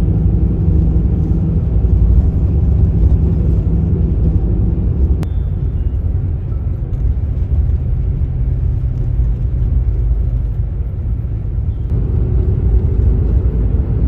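Steady low rumble of a road vehicle's engine and tyres, easing off a little partway through and building again near the end.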